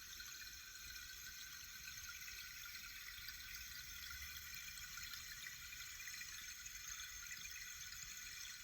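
Sipo-mahogany rain-stick meditation column: natural grains trickling down inside and striking the internal obstacles, making a steady, even hiss.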